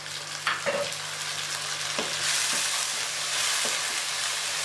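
Chicken and onion-tomato masala sizzling in a hot non-stick wok just after a splash of water, stirred with a wooden spatula that knocks against the pan a few times. The sizzle grows louder about two seconds in.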